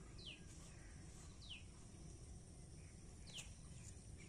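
Faint bird calls, a few short notes that slide downward, well apart, over quiet outdoor background hiss.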